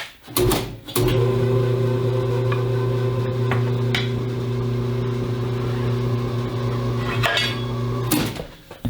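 Tire changing machine's motor running steadily for about seven seconds as it works a truck tire's bead off the rim, with a few sharp clicks and snaps over the hum. It starts with a click about a second in and stops abruptly near the end.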